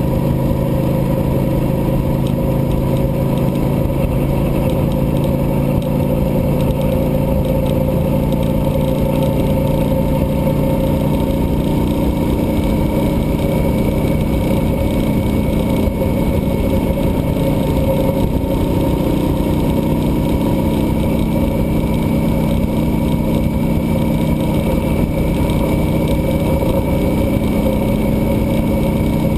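Cruiser motorcycle engine running steadily while riding, with wind noise on the microphone; the engine note shifts a little about twelve seconds in.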